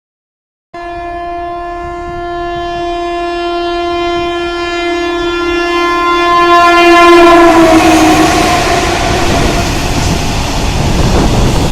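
Indian Railways train sounding one long horn blast that begins abruptly, its pitch dropping slightly near the end as the train passes, followed by the loud rush of the train going by at speed.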